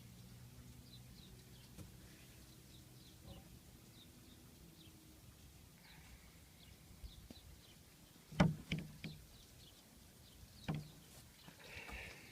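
Three sharp knocks in quick succession just past the middle, and one more about two seconds later, over faint bird chirps outdoors.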